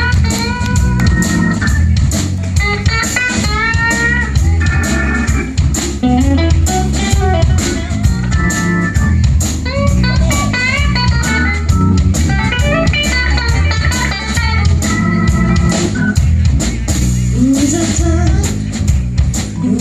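A live band playing a bluesy instrumental passage. A lead guitar plays a bending melodic solo over bass and a steady drum beat.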